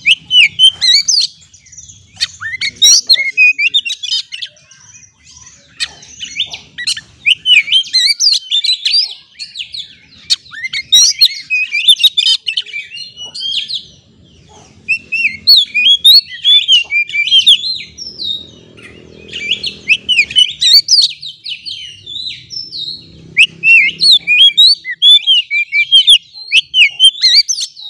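Oriental magpie-robin singing, a rapid run of varied high whistles and chirps delivered in bouts with short pauses between them.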